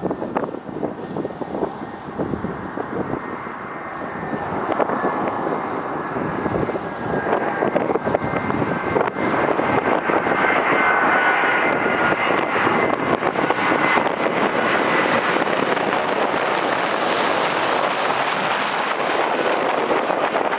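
Airbus A320 jet engines growing louder as the airliner comes closer, then holding at a steady loud rumble with a faint high fan whine. Gusts of wind hit the microphone in the first few seconds.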